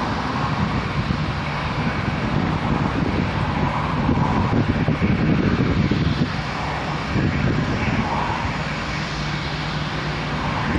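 Jet airliner engines running: a steady rumble and roar that grows louder about four seconds in and eases back about two seconds later.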